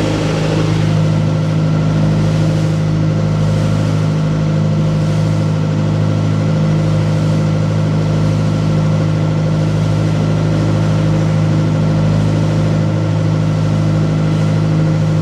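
Boat engine running steadily, a loud even drone with no change in speed.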